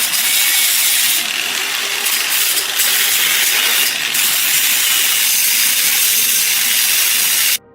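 A power tool working on rusty metal: a steady, harsh, hissing rasp with a few brief changes in level, cutting off suddenly at the very end.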